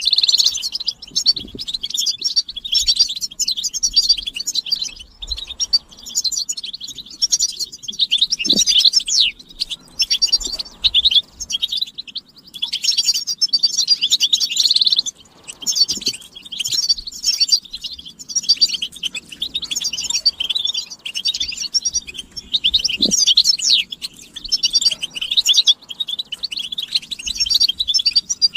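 European goldfinches twittering together in a rapid, continuous stream of high chirps and trills, several birds calling at once with only brief pauses.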